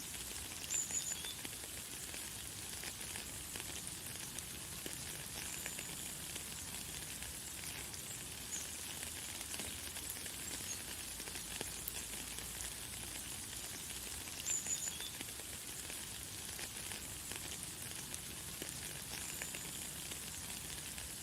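Light, fine rain falling steadily as an even hiss, with a bird giving short, high chirps every few seconds, the loudest about a second in and again near the middle.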